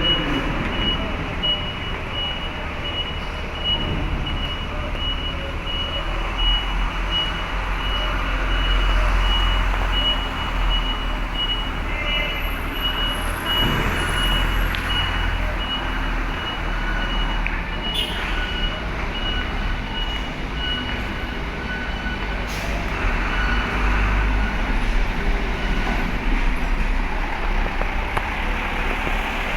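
Heavy truck engines running with a low rumble, while a reversing alarm beeps rapidly and steadily, stopping about two-thirds of the way through.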